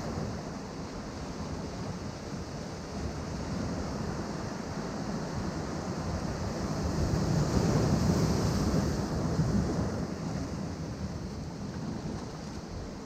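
Ocean surf washing against a rocky shore: a continuous rush of breaking water that swells to a louder break around the middle, then eases off.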